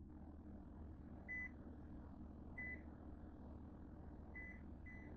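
Microwave oven keypad beeping as buttons are pressed to set a defrost: four short, high single-pitched beeps spaced unevenly, over a faint low hum.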